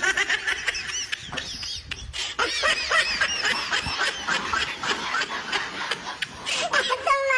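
Animals squealing and chattering in quick, high-pitched calls, several a second, with a longer, lower call near the end.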